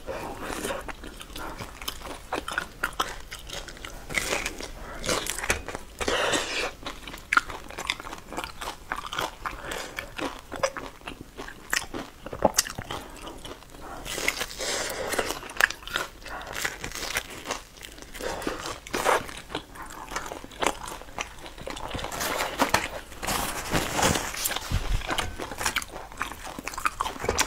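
Close-miked mouth sounds of biting into and chewing a sauce-soaked pan-fried bun, the crisp browned crust crunching among wet chewing sounds.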